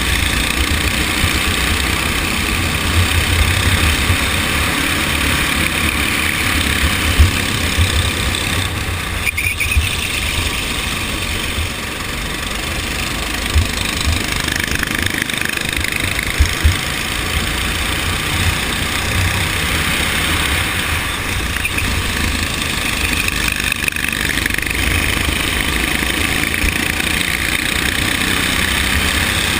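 Go-kart engine running steadily during a race, over a heavy, fluttering low rumble, with a few short louder peaks.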